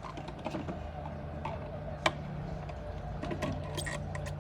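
Irregular light clicks and clinks, with one sharp, louder click about two seconds in, over a steady low hum.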